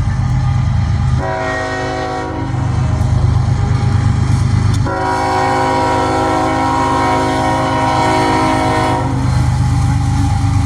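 Diesel freight locomotive's air horn sounding two long blasts, the second following almost at once on the first, over the steady low rumble of the locomotive passing.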